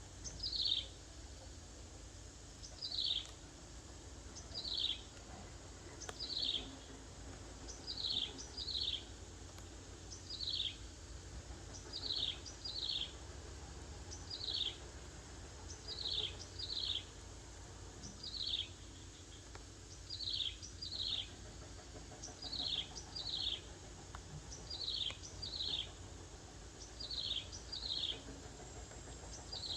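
A bird calling with short, high chirps that slide downward in pitch, given singly or in quick pairs every second or two in a steady, repetitive series.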